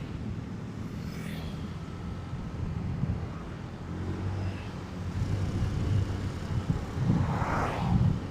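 Motorcycle engine running at low speed in traffic with a steady hum, growing louder from about halfway in, with a brief louder rush of wind or passing traffic near the end.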